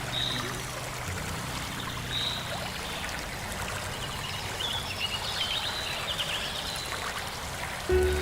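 Steady flowing water of a stream, with a few short high chirps scattered through it; soft background music fades out about a second in and comes back near the end.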